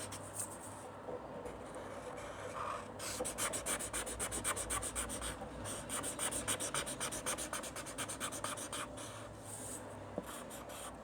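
Felt-tip marker scribbling on paper, colouring in an area with quick back-and-forth strokes that come fastest and most evenly between about three and nine seconds in.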